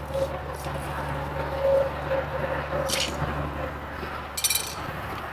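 A steady low hum, with two short scraping sounds about three and four and a half seconds in, the second made of several quick strokes.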